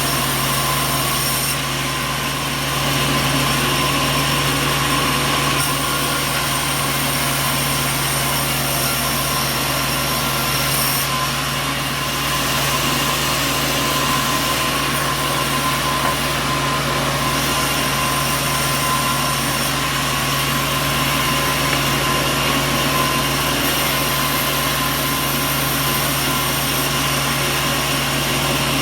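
Sawmill machinery running steadily: a constant mechanical drone with a low hum and several steady tones, and no cutting strokes or impacts standing out.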